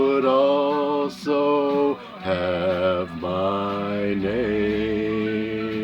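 Male voice singing a ballad's closing phrase over backing music, in short sung notes and then one long held note from about four and a half seconds in.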